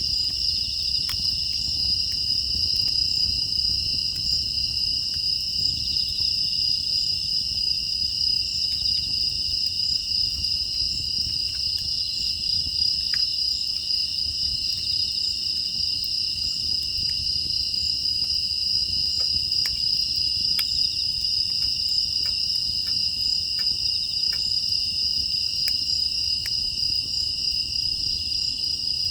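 Field crickets chirring steadily in a dense high chorus, over a wood fire burning in a traditional agungi fire hole with a low rumble and sparse, scattered crackles.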